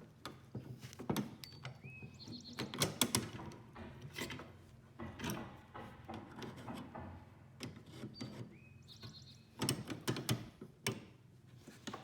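Handling noises from hand work: irregular clicks, knocks and taps, with two short high squeaks, one about two seconds in and one near the end.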